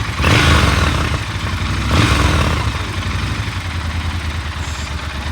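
Triumph Scrambler motorcycle with an aftermarket Arrow exhaust, revved in two short throttle blips, the first just after the start and the second about two seconds in, then settling back to a steady idle.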